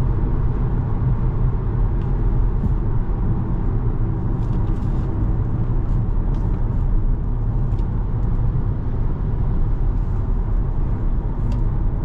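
Steady in-cabin drone of a 2017 Volkswagen Jetta SE cruising at highway speed, mostly tyre and road noise with the engine underneath, with a few faint ticks now and then.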